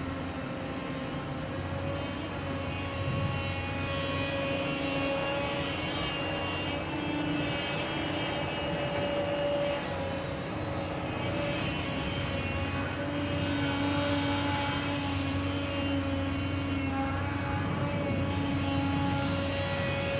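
Heavy diesel engine running steadily, its drone rising and falling slightly in pitch.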